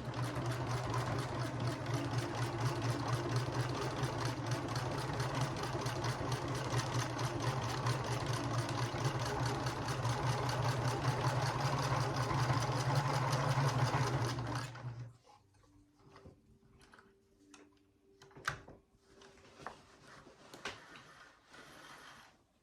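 Domestic sewing machine stitching through a quilt at a steady speed, a rapid even needle clatter over the motor hum. It stops about two-thirds of the way in, leaving only faint clicks and rustles.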